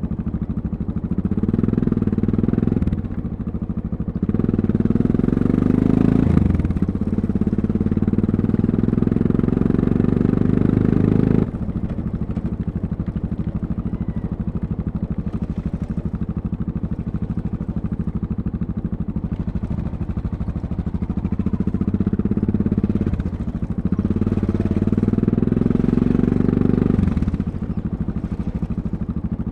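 Yamaha MT-03's 660 cc single-cylinder engine under way, pulling up in pitch through a short gear change, then dropping abruptly about a third of the way in to a steady lower note. It pulls up again later and drops back near the end.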